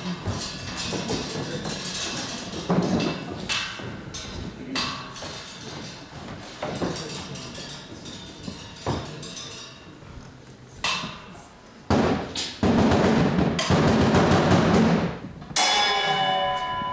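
Live theatre percussion: irregular wooden knocks and drum hits. A louder noisy stretch comes in the last few seconds, and a ringing bell-like tone comes in near the end.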